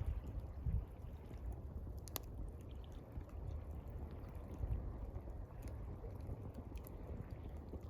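Water lapping gently, with low surges of small waves, and the sharp crackle of a campfire, one louder pop about two seconds in.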